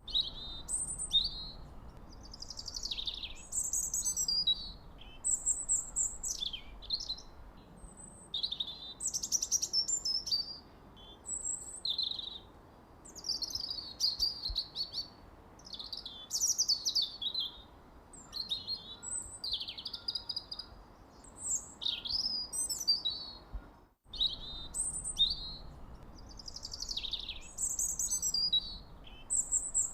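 Songbirds chirping and trilling in a dense run of high, quick, sweeping chirps over a faint background hiss. The sound cuts out for an instant about four-fifths of the way through, then the chirping carries on.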